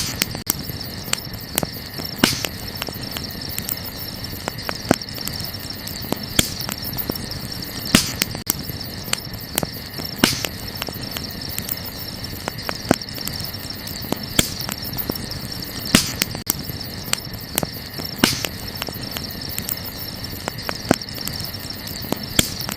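Wood campfire crackling, with frequent small snaps and a sharper, louder pop about every two seconds. A steady high-pitched chirring of night insects runs underneath.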